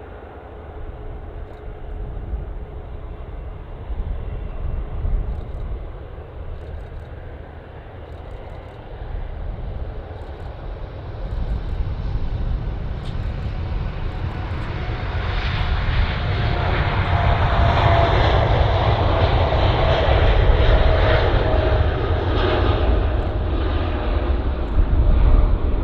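Jet airliner's engines passing close, the rumble swelling to loud about halfway through and staying loud, with a whine that slowly falls in pitch.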